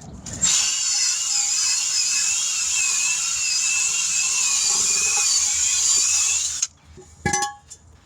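A high-speed rotary tool running with a steady high whine that wavers slightly in pitch, cleaning a wheel rim; it stops shortly before the end, followed by a couple of sharp knocks.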